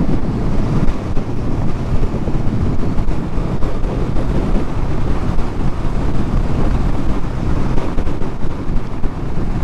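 Wind rushing hard over the microphone of a moving motorcycle, with the bike's engine droning steadily underneath.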